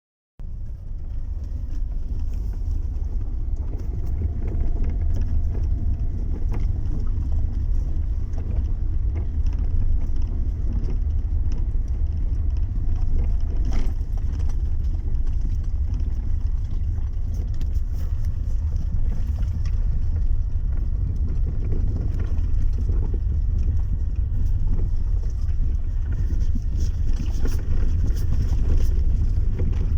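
Lada Vesta driving on a gravel road, with a steady low rumble of road noise and many irregular short knocks and rattles. The knocking and rattling comes from the car's electric power steering.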